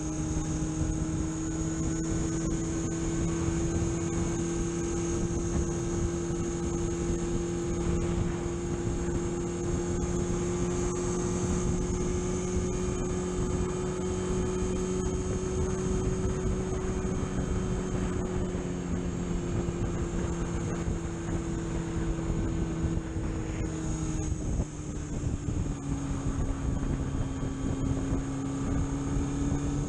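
Vehicle engine running steadily under way, a constant drone with road and wind noise. Its pitch drifts slightly up, then drops a little about 24 seconds in as engine speed falls.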